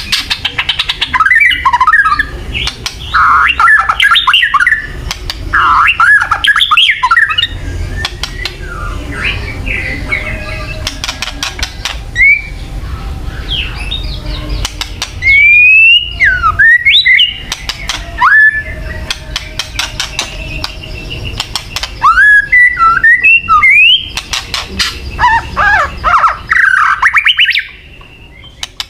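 White-rumped shama (murai batu) giving kretekan: loud bursts of rapid, dry crackling clicks mixed with short whistled notes that sweep up and down. This is the aggressive call played to shamas to provoke them into fighting mood. It drops away near the end.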